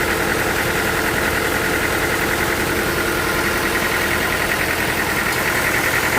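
Sawmill machinery running steadily, with a constant engine-like hum and a higher steady whine.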